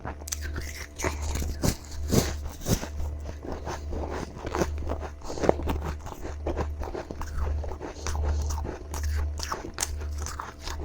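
Close-up biting and chewing of powdery freezer frost ice: a run of irregular crisp crunches and crackles, one after another, over a low steady hum.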